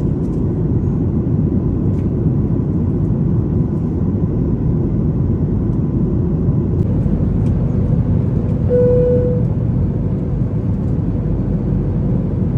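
Steady low rushing cabin noise of a Boeing 737 MAX 9 in flight, from its CFM LEAP-1B engines and the airflow over the fuselage. A short single tone sounds once, about nine seconds in.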